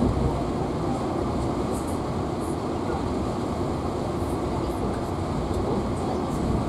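Passenger train running along the rails, heard from inside the carriage: a steady rumble of wheels and running gear.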